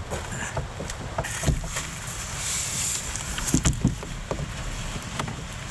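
Canoe on the water: a soft swish of water around the middle and a few scattered knocks against the hull, over a steady low rumble.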